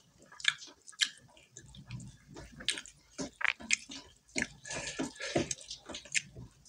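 Close-miked wet chewing with lip smacks, a string of short, sharp clicks at an uneven pace, from a mouthful of rice being eaten by hand.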